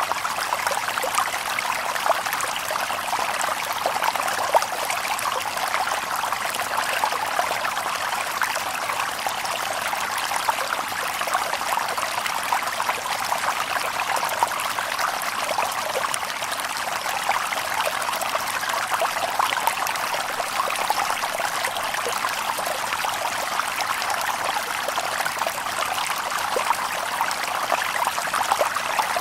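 Shallow stream babbling and trickling over stones: a steady rush of water with small splashes, no birds.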